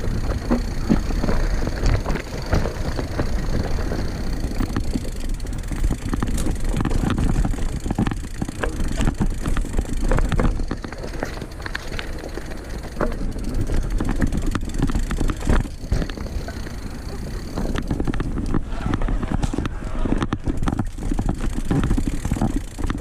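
Mountain bike ridden over a rocky forest trail: tyres rolling and bumping over rocks, with frequent short knocks and rattles over a steady low rumble.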